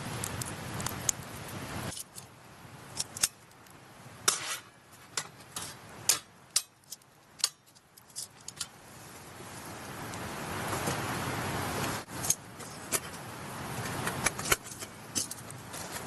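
Small metal clinks and clicks of camp cookware being handled for coffee, with a steady rush of flowing stream water that fades out and swells back up between cuts.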